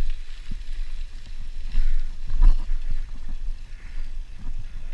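Wind buffeting the microphone of a rider on a moving bicycle, an uneven low rumble with a few knocks and rattles about halfway through.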